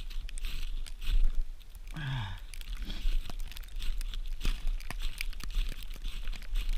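Repeated scraping strikes of a spark-throwing fire starter against tinder, with crackly crunching and clicks throughout. A brief low falling vocal sound comes about two seconds in.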